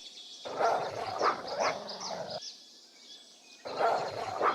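Wolves giving short whines and yips, several in quick succession, then a pause of about a second before a few more calls near the end.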